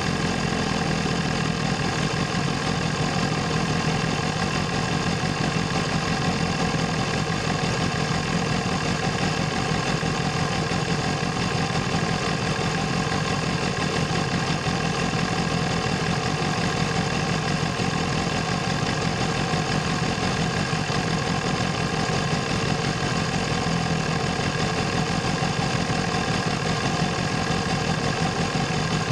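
BMW S1000RR inline-four engine and exhaust running at steady, unchanging revs.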